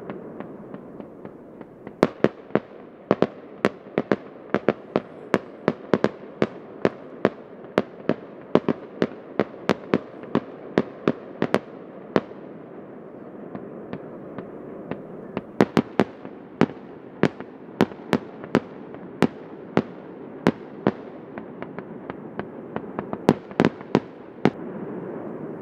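Fireworks display: rapid volleys of sharp bangs from bursting aerial shells, several a second, with a lull of a few seconds midway, over a continuous background wash.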